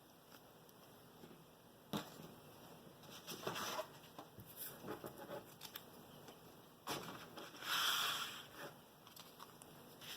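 Paper and cardstock being handled: a sharp tap about two seconds in and another about seven seconds in, each followed by rustling and rubbing.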